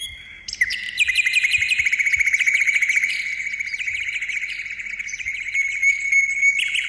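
A bird singing a fast trill of high chirps, about ten notes a second.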